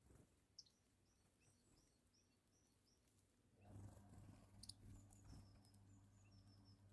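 Very quiet outdoor scene: a small bird repeats short, high chirps. A little past halfway a low steady hum comes in, with soft knocks and rustling.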